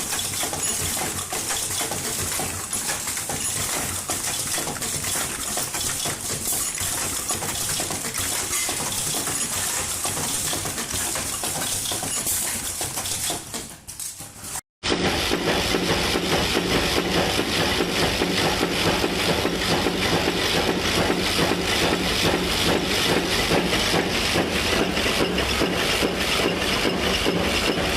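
Factory machinery running: a dense, rapid clatter for the first half. After a brief break about halfway, a different machine runs with a steady hum and fast, even clicking.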